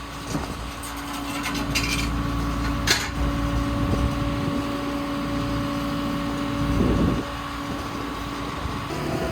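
An engine running steadily with an even hum, and a couple of short clicks about two and three seconds in.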